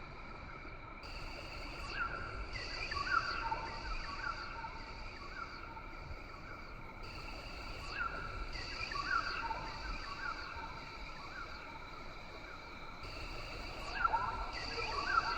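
Rainforest ambience: a steady insect chorus, with its highest layer switching on and off every second or so. Over it, birds give short, quick, falling calls in clusters, thickest near the end.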